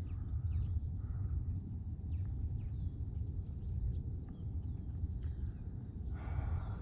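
Steady low rumble outdoors with small birds chirping in the background, a short high chirp about every second.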